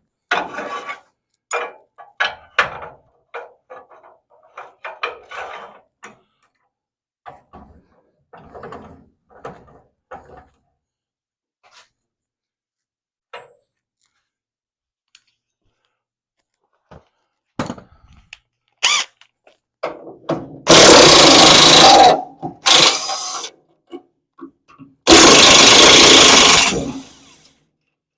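Scattered light knocks, then a power tool run in three bursts near the end, the last the longest, used to unfasten the car body from the rotisserie.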